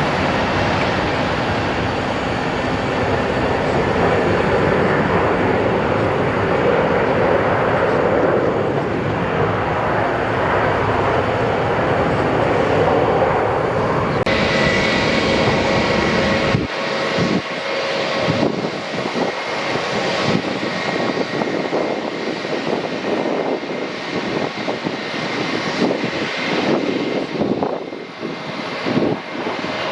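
Airliner engine noise at an airport: a loud, steady rushing sound. About 14 seconds in it changes abruptly, and a few seconds later the deep rumble drops away, leaving a thinner, uneven rushing that wavers in level.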